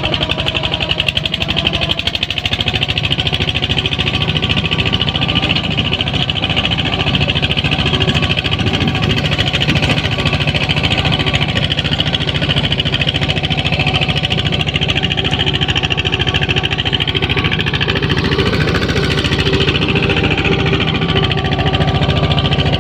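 ZT 155 tractor's diesel engine running steadily with a fast, even knocking beat.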